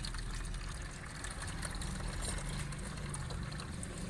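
Water-contaminated oil trickling steadily out of the drained crankcase of a Gehl R165 engine: water ran out first and thick oil is now slowly following.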